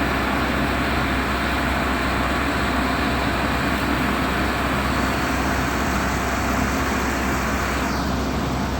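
Steady drone of a ship's engine, a constant low hum under an even rushing noise.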